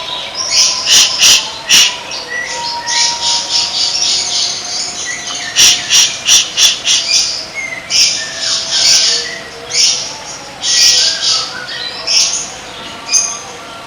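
Caged songbird from a masteran bird-song recording calling: a fast, irregular string of harsh, rasping high notes, each under half a second, with sharp clicks mixed in and fainter thin whistles underneath.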